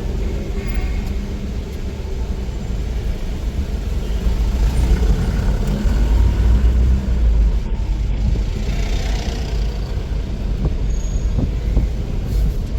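Road traffic: vehicles running with a heavy, steady low rumble, and a hissing pass from a vehicle about nine seconds in.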